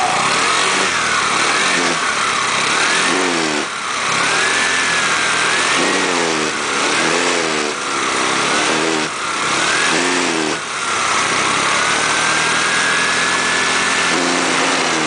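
Motorcycle engine revved up and down over and over on the throttle, its pitch rising and falling about once a second, with one longer held rev near the end. The revving is meant to blow old carbon deposits out of the exhaust after a new spark plug was fitted, though the revs are not pulled high enough.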